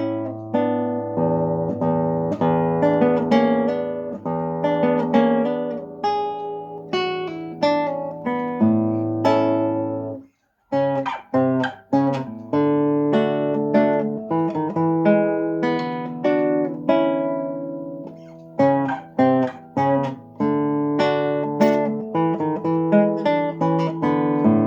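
Solo acoustic guitar playing a fingerpicked piece: single plucked notes ringing over held bass notes, with a brief pause about ten seconds in before the playing resumes.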